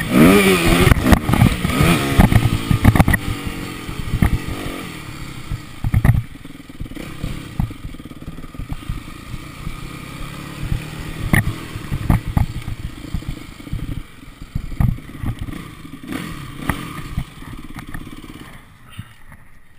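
Motocross bike engine revving hard in the first second or so, then fading away. Scattered knocks and clatter follow as the overall sound dies down.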